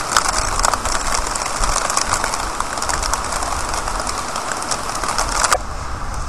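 Rain falling in a storm: a steady hiss with many drops ticking close by, over a low rumble. The hiss and ticking drop away suddenly about five and a half seconds in.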